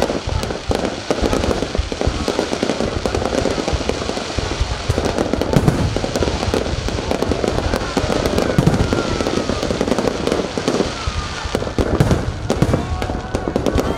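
Fireworks display going off in a dense, continuous barrage of rapid bangs and crackling.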